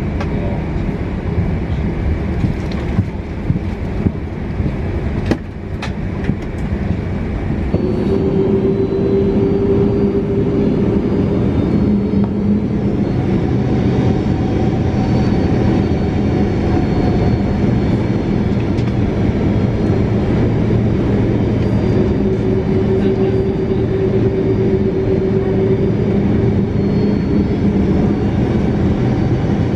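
Boeing 767-400ER cabin noise: a steady loud rumble with a few sharp clicks early on, joined about eight seconds in by several steady engine tones as the sound grows slightly louder.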